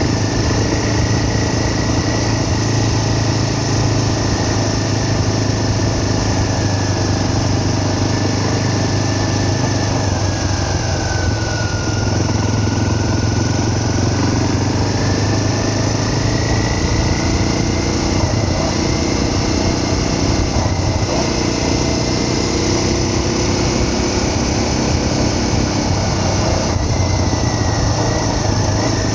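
Vehicle engine running steadily under way, with a constant low hum and a high whine that dips in pitch about eleven seconds in and climbs back.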